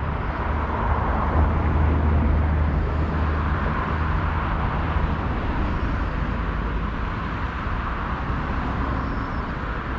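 Steady low rumble of road traffic with an even hiss, a little heavier in the first few seconds.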